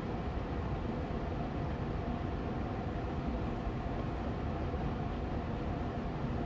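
Austin Air Allergy Machine air purifier fan running steadily on medium speed: an even rushing hum with a faint steady tone in it.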